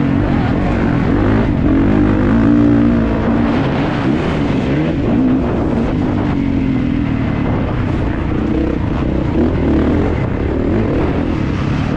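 Kawasaki KX450's single-cylinder four-stroke engine running hard under race load, its pitch rising and falling over and over as the throttle is opened and closed through the gears.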